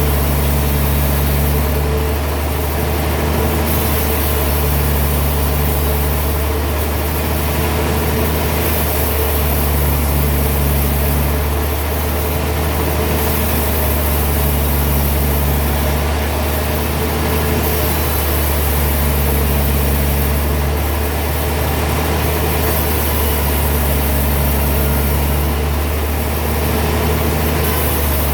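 Heavy sawmill machinery running steadily: a constant low hum with a higher tone that comes and goes about every five seconds.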